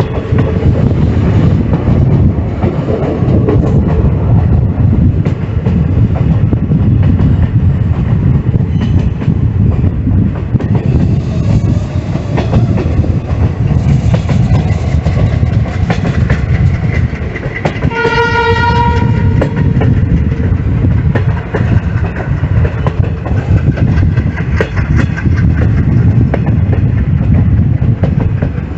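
Train running along the rails: a steady, loud rumble with the clickety-clack of wheels on the track. The locomotive's horn sounds once, for about a second and a half, some eighteen seconds in.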